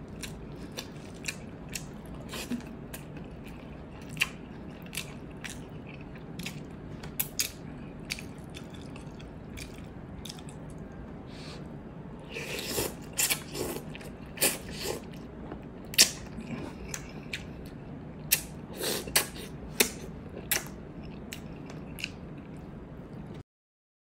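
Close-miked eating: wet chewing and sharp mouth clicks and smacks over a steady low hum. They come thicker and louder from about twelve to fifteen seconds in, as instant noodles are eaten off chopsticks, and again a little later. The sound drops out briefly just before the end.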